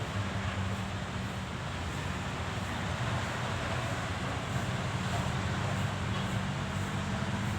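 Steady road traffic noise with a low engine hum running throughout.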